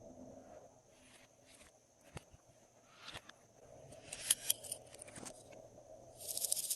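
Glossy slime being squished and stretched by hand, giving scattered sticky clicks and crackles, with a denser run of crackling near the end.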